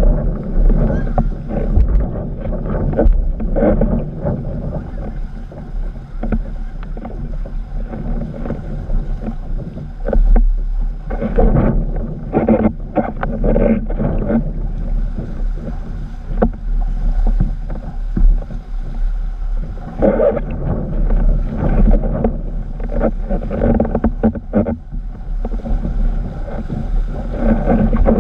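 Wind buffeting the microphone and water rushing and slapping under a windsurf board sailing in a strong breeze, a continuous noisy rumble with irregular surges and sharp splashes.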